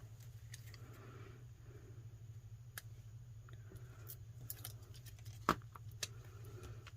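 Paper pieces handled on a journal page: light rustles and small scattered clicks, with one sharper tap about five and a half seconds in, over a steady low hum.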